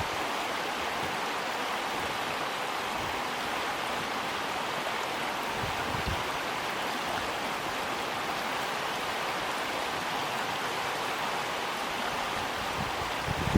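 River water flowing and rushing steadily beneath a bridge, an even hiss of moving water.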